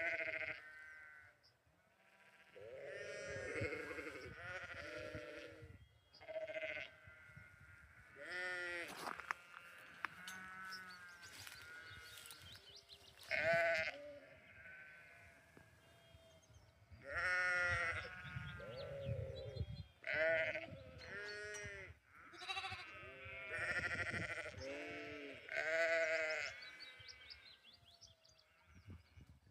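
Lambs and sheep bleating over and over, one call after another about every two seconds, each bleat with a quavering pitch and several voices taking turns.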